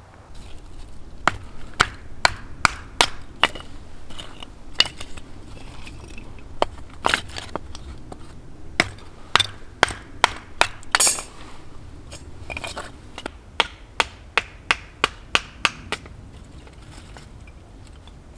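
Repeated sharp strikes of a hand tool, irregular and sometimes in quick runs, stopping about two seconds before the end.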